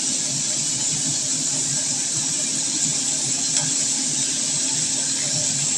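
Chopped white chives, shallot and garlic sizzling steadily in hot oil in a frying pan, with a steady low hum underneath.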